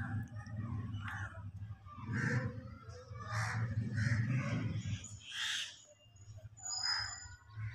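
Birds calling outdoors: a series of short harsh calls, roughly one a second, and a couple of thin high chirps near the end, over a low rumble that eases after about five seconds.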